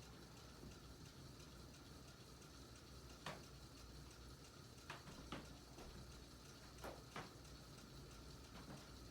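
A 1987 SMC Laguna ceiling fan running faintly: a low steady hum with a handful of sharp, irregularly spaced ticks. Its motor is in poor condition and prone to scraping and grinding.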